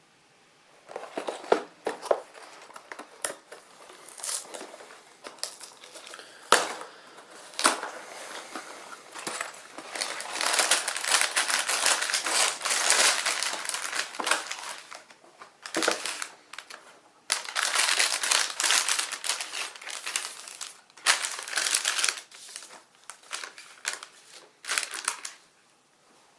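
Plastic packaging crinkling and rustling as it is handled, in spells with short pauses and a few sharp clicks.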